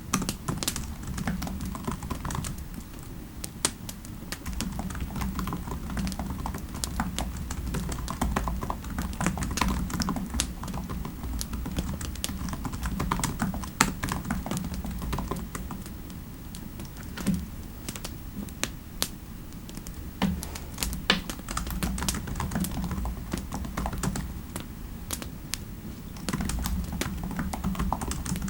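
Typing on a computer keyboard: irregular runs of key clicks with the odd louder tap. Underneath is a steady low rumble of fireplace ambience.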